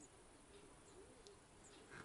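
Near silence, with faint low bird calls in the background.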